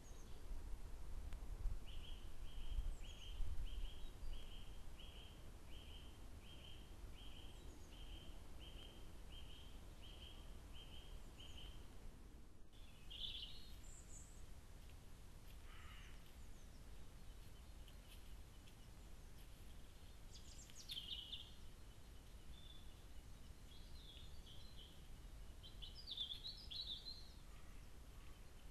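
Wild birds calling: one repeats a short high note about one and a half times a second for some ten seconds, then, after a break in the recording, other birds give scattered chirps, over a low rumble.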